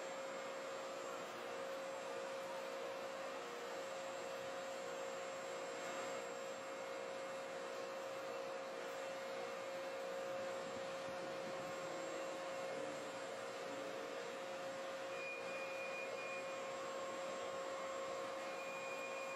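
A steady hum with one constant mid-pitched tone over an even hiss, unchanging throughout.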